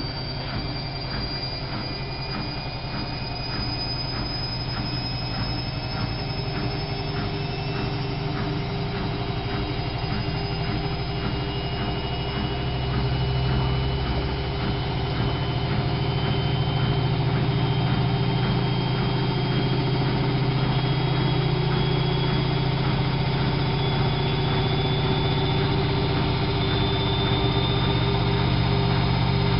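Whirlpool AWO 5346 washing machine's motor and drum speeding up into a spin, with a whine that slowly rises in pitch and a steady run that grows louder about halfway through.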